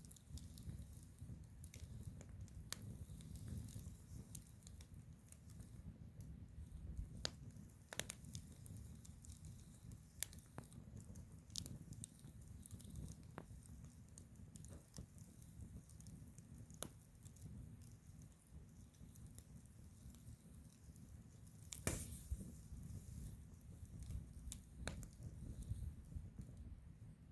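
Wood fire crackling, with irregular sharp pops every second or so over a steady low rumble; a cluster of louder pops comes a little past the middle.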